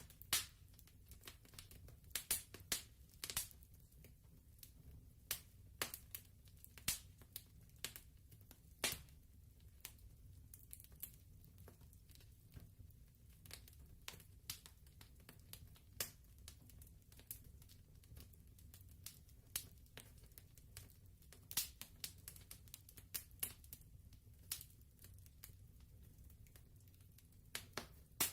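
Fireplace wood fire crackling: irregular sharp pops and snaps over a faint low rumble.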